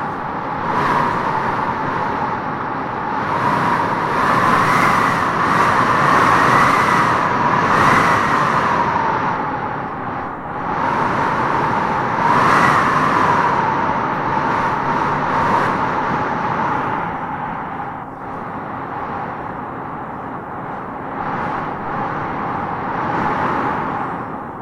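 Howling wind gusting through tropical trees: a steady rush with a whistling howl that swells and rises in pitch with each gust, strongest a few seconds in and again around halfway.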